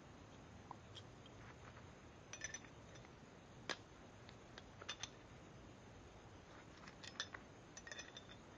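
Light, scattered metallic clicks and clinks of small air-compressor fittings and tools being handled and fitted, over near silence, with a small cluster of clicks near the end.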